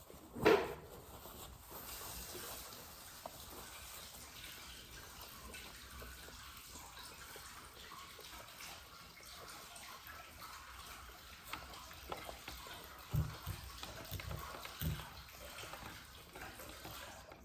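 Steady hiss of running liquid, with a few low knocks near the end.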